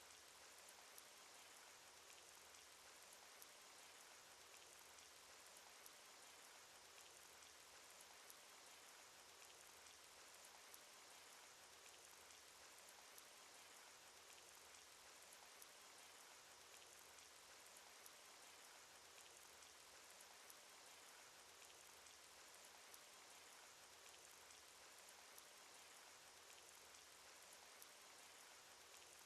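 Faint cartoon rain sound effect: a steady hiss of rainfall with single drop ticks scattered through it.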